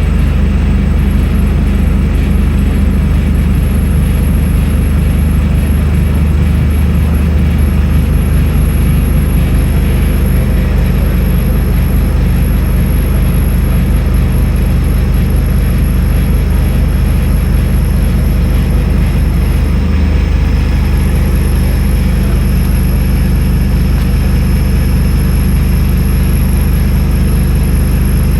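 Scania N310UA articulated city bus's diesel engine and driveline running with a steady drone and a high whine above it. The engine note shifts about two-thirds of the way through.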